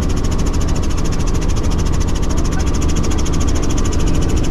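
Helicopter running in flight: a loud, steady engine and rotor noise with a fast, even pulsing from the blades.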